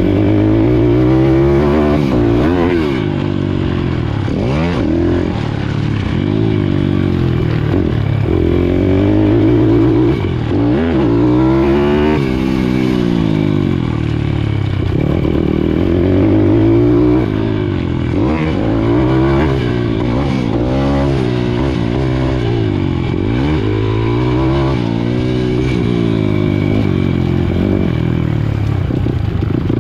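Pit bike's single-cylinder four-stroke engine heard close up while racing, its pitch repeatedly rising and falling as the rider opens and shuts the throttle through the corners and jumps.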